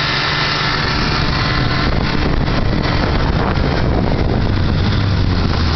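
1957 Evinrude Fastwin 18 hp two-cylinder outboard running under way, pushing the boat across the water. Its steady engine tone is partly covered by a loud rushing noise from about two seconds in, and a low hum grows stronger near the end.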